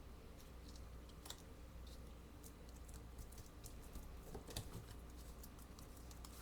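Faint scattered clicks and light taps over a steady low hum.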